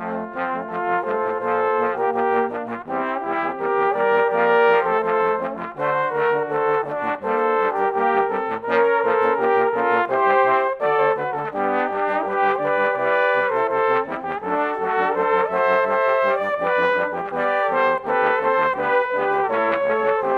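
A trombone ensemble of two alto trombones, three tenor trombones and one bass trombone playing an upbeat pop arrangement in close chords, the notes moving in quick rhythmic figures.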